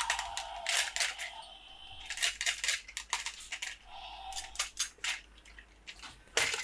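Toy packaging being handled and opened: irregular sharp clicks and crackles of plastic, mixed with rustling stretches.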